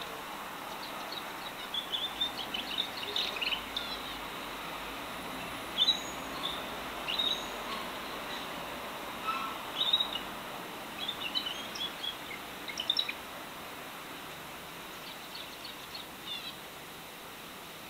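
Pet birds chirping and singing in short, quick high notes that come in clusters, loudest around six and ten seconds in, over a steady background hiss.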